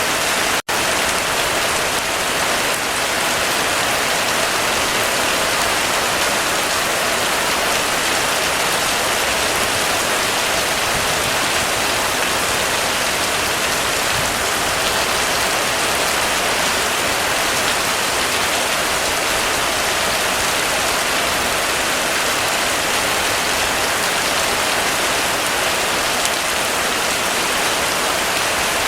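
Heavy rain falling steadily in a dense, even downpour with no thunder. The sound cuts out for an instant about half a second in.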